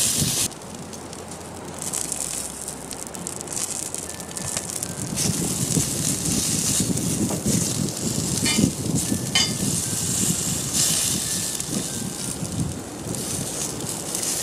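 Asparagus and green peppers sizzling in a small cast-iron skillet over a fire, a steady crackling hiss, with a couple of sharp clicks of a fork against the pan about two-thirds of the way through.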